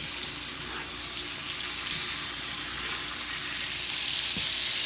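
Steaks frying in a hot skillet, a steady sizzle.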